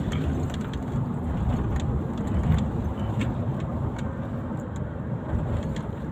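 Steady low rumble of a moving vehicle, road and engine noise, with a few faint clicks.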